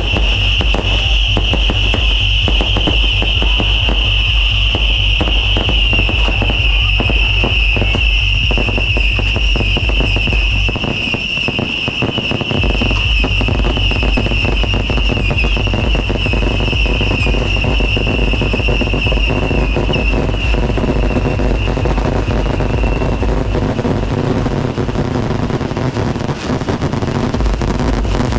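Fireworks and firecrackers going off in a dense, continuous crackle, with a loud steady high whine that slowly drops in pitch and fades out about three-quarters of the way through.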